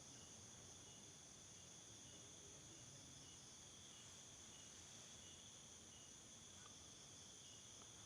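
Near silence with the faint, steady high-pitched chirring of crickets.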